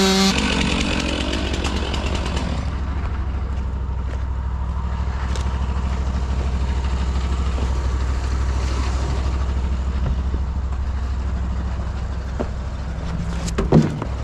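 Small gasoline engine of a portable bandsaw sawmill idling steadily with a low hum while the saw is stopped after the blade struck a nail. A short sharp knock near the end.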